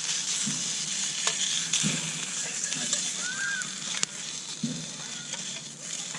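Food sizzling in a frying pan, a steady hiss with a few sharp clicks, easing off a little after about four seconds.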